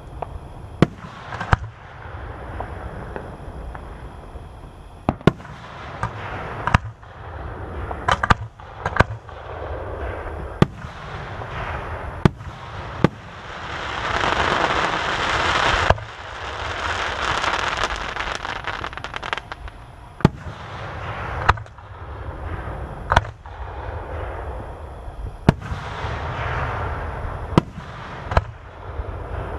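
Aerial fireworks shells bursting in a series of sharp booms, one every second or two. A swell of crackling and hiss builds about halfway through and comes again more briefly near the end.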